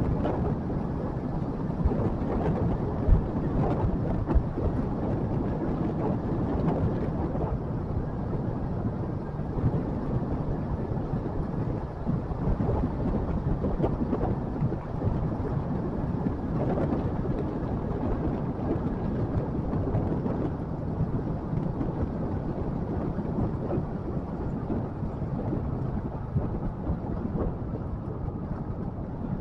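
Motorcycle on the move: a steady low rumble of engine, road and wind buffeting the microphone, with occasional sharp knocks, the loudest about three seconds in.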